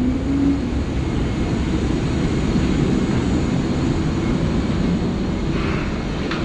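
Steady low rumble of aircraft noise around a parked airliner, with a brief tone that fades out within the first second.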